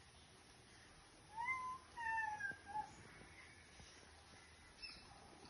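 A cat meowing faintly: two or three short meows in quick succession between about one and three seconds in.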